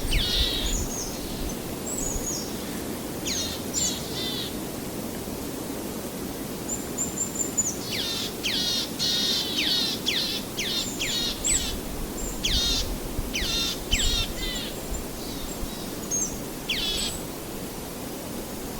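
Songbirds calling in quick series of sharp, high, down-slurred notes, densest in the middle, over a steady low rushing background.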